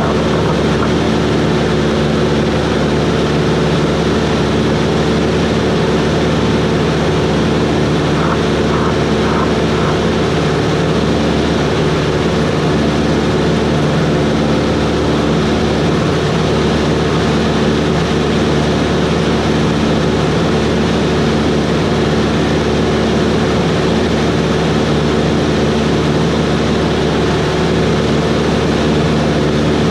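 Cessna 140's piston engine and propeller running at a steady, unchanging speed.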